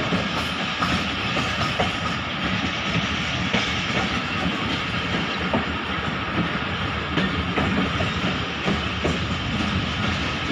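Passenger coach running along the track, heard from its open doorway: a steady rolling rush, with the regular clickety-clack of wheels passing over rail joints.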